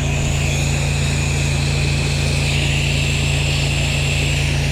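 Engine-driven pressure washer running steadily. About half a second in, the hiss of the water jet starts as it rinses dirt off the house.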